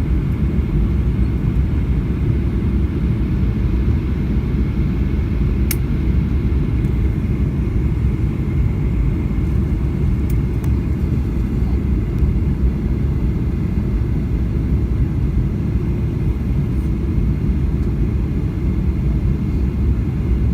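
Cabin noise inside a Boeing 737-800 in flight on approach: a steady low rumble of airflow and its CFM56 engines, with a faint steady whine above it. A single sharp click about six seconds in.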